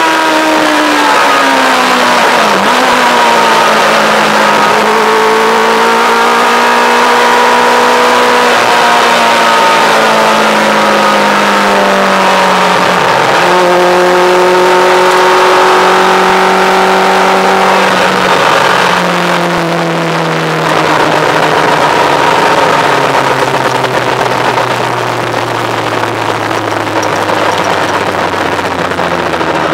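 Yamaha R1 motorcycle engine, an inline-four, in a lightweight open car being driven hard, its note rising and falling through the revs with two sharp dips. Over the last third the pitch falls steadily as the car slows off the circuit, with wind rush over the open cockpit throughout.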